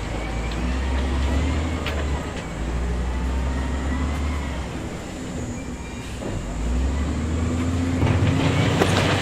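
Diesel engine of heavy earthmoving machinery running under load, its pitch slowly rising and falling. It eases off briefly past the middle and then revs back up, with a few sharp knocks.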